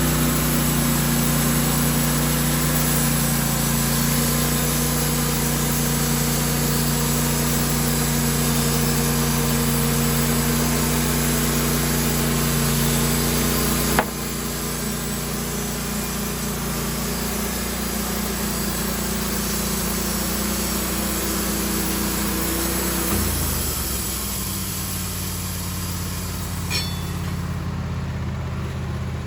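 Engine running steadily at a constant speed. A sharp click about halfway is followed by a slightly lower level, and about three quarters in the engine's pitch slides down and settles lower.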